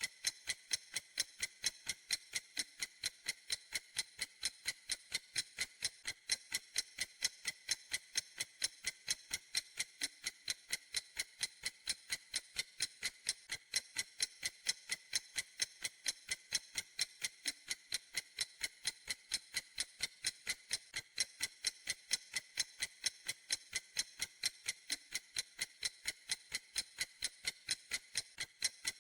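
Clock ticking steadily, in an even, unchanging rhythm of sharp, high-pitched clicks.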